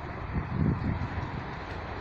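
Low rumble of a passing passenger train, with wind buffeting the microphone in gusts about half a second in.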